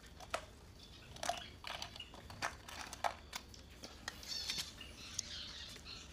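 Faint, scattered light clicks and taps as a wire-frame gauze sieve is handled at a birdcage, with a few short chirps from the cage bird.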